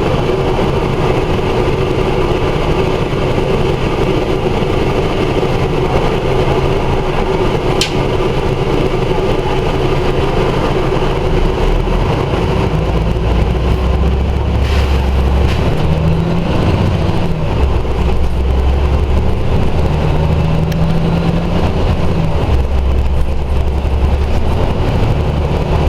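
Scania OmniDekka double-decker bus engine running steadily, then pulling away and accelerating from about halfway through. The engine note steps several times as it changes up through the gears, with a faint rising whine.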